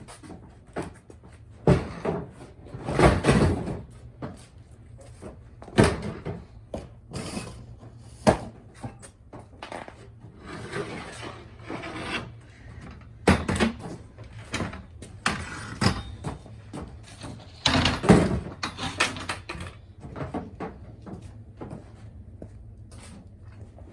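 Things being rummaged through and handled: irregular knocks and bumps, with stretches of rustling in between.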